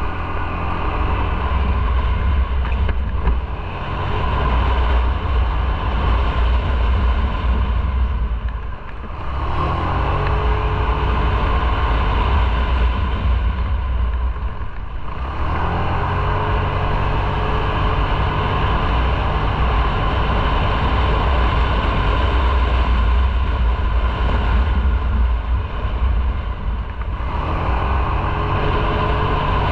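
Motorcycle engine running under way, recorded on board with wind rush. The throttle eases off and the engine picks up again about nine seconds in and again about halfway through.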